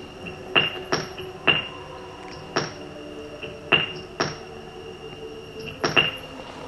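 A string of sharp knocks at irregular intervals, several in quick pairs, each leaving a short high ringing tone, over a steady faint hum.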